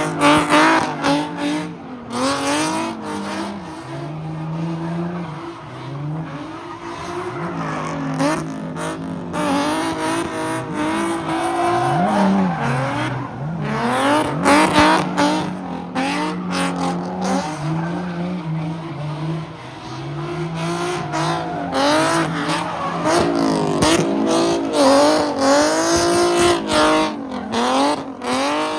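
A car spinning donuts, its engine revving up and down while the tires squeal and skid on the pavement.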